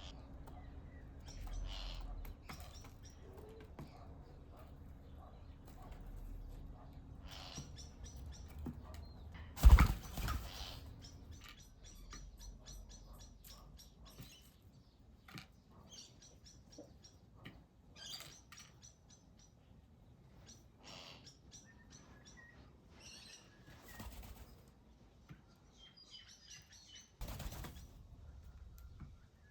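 Small wild birds chirping and twittering at a feeder and bird bath, with a few brief wing flutters, the loudest about ten seconds in and another near the end.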